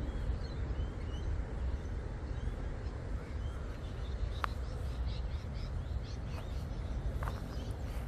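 Small birds chirping, with a quick run of short falling chirps about five seconds in, over a constant low rumble.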